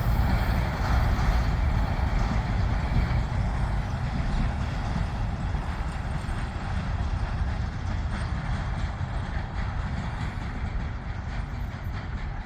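Freight train cars rolling past on the rails: a steady low rumble of wheels with light clicks, slowly getting quieter.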